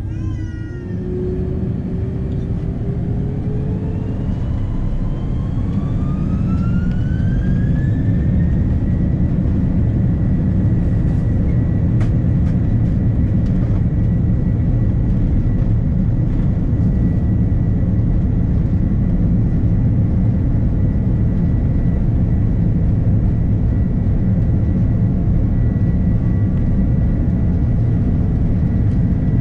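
Airbus A330-300 jet engines spooling up to takeoff thrust, heard inside the cabin: a whine rising in pitch over about eight seconds and then holding steady, over a loud rumble that builds in the first few seconds and stays as the takeoff roll goes on.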